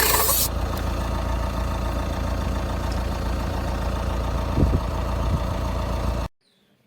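Portable 12 V air compressor running with a steady mechanical hum; its pitch drops just after the start, and it cuts off suddenly near the end.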